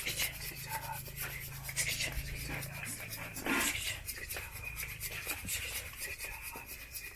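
Dry coffee beans and loose husks being rubbed and scraped by hand to separate the shells from the beans, a continuous scratchy rustle made of many small ticks.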